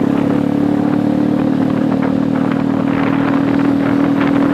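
A steady, loud, low motor hum holding one pitch, with irregular sharp taps of raindrops hitting the phone that grow more frequent about three seconds in.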